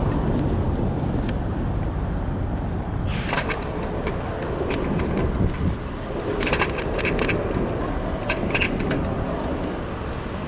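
Steady city street traffic noise with a low rumble, broken by several quick clusters of clicks and rattles.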